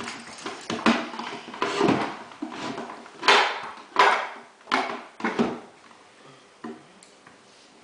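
Coloured counting sticks clicking and clattering on a tabletop as they are picked up and laid in a stack, a string of sharp knocks. The loudest come about three and four seconds in, and they grow sparse near the end.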